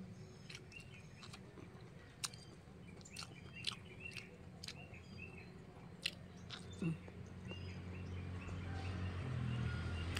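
A person chewing and biting okra close to the microphone, with scattered sharp mouth clicks. Small birds chirp faintly. Near the end a low vehicle engine rumble grows louder.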